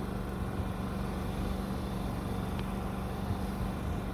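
An engine running steadily with an even, unchanging hum, over constant rushing noise.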